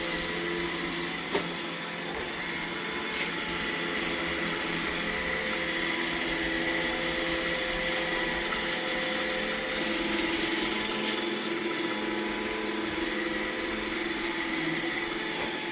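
iRobot Roomba E6 robot vacuum running its cleaning cycle: a steady motor whine with several held tones, and one sharp click about a second in.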